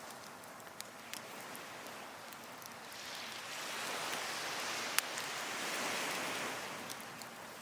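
Waves washing onto a beach, one swell building and fading over a few seconds, with sharp pops and crackles from burning firewood, the loudest pop about five seconds in.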